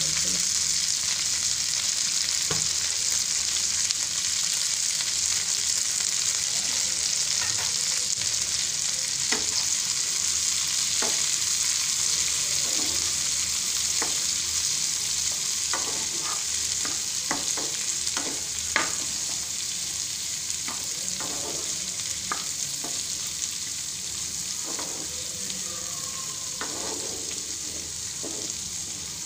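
Chopped cabbage sizzling in hot oil in a frying pan, a steady frying hiss that slowly fades. A spatula stirring it makes scattered clicks and scrapes, most of them past the middle.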